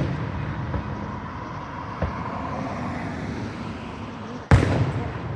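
Fireworks aerial shells bursting: a sharp smaller report about two seconds in and a loud boom near the end, with a rolling rumble between.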